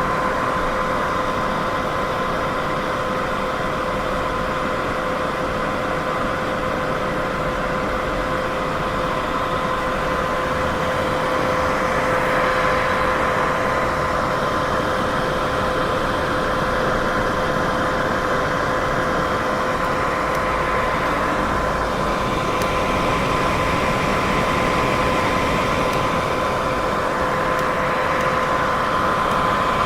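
Continuous white noise for sleep and sound masking: a steady hiss with a faint hum at two pitches underneath, slowly swelling and easing in its upper range.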